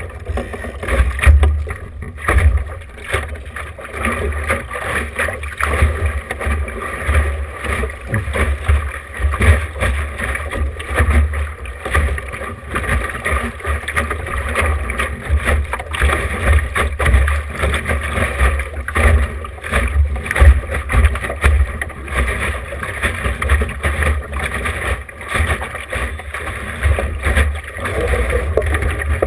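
Wind buffeting the camera microphone in uneven gusts, over water rushing and splashing against a small sailboat's hull as it sails.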